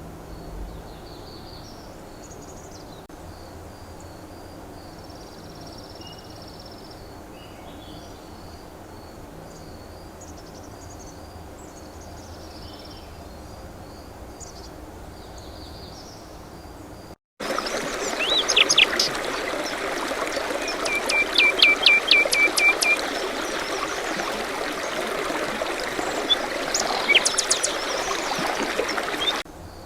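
Outdoor nature ambience with small birds chirping. For the first part the chirps are faint and high over a soft steady background. About seventeen seconds in, the sound cuts abruptly to a louder rush of running water with birds calling over it, including a quick trill of rapid notes, then cuts back to the quiet ambience just before the end.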